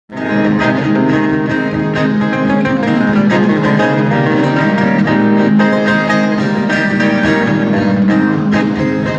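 Instrumental introduction of a Brazilian country (sertanejo/caipira) song: plucked guitar strings playing a melody over sustained chords, with a bowed string instrument also sounding.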